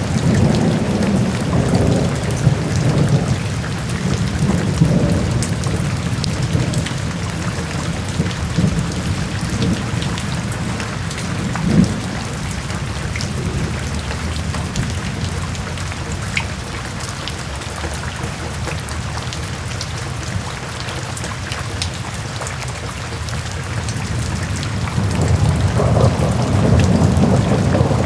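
Steady heavy rain, with low rolling thunder that fades over the first few seconds and swells again near the end.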